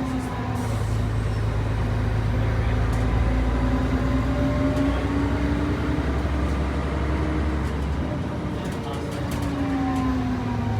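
Mercedes-Benz OM 447 HLA six-cylinder turbo diesel bus engine heard from inside the cabin while driving, with a low drone and a whine that rises slowly in pitch over several seconds, then falls near the end.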